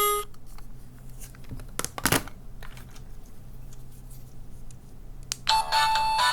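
Small electronic sound-effect toys from a capsule-toy machine: a two-tone 'ping-pong' chime dies away at the start, then the plastic toys click as they are handled and pressed, with a louder click about two seconds in. Near the end a tinny electronic jingle starts playing.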